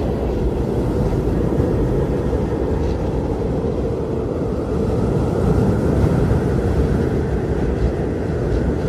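Strong blizzard wind blowing steadily as a deep rumble, with a faint higher howl rising about halfway through.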